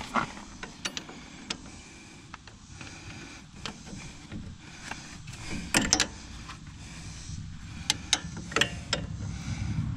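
Scattered metallic clicks and knocks of hand tools and suspension parts being handled while working on a pickup's front suspension, over a low rumble that grows louder near the end.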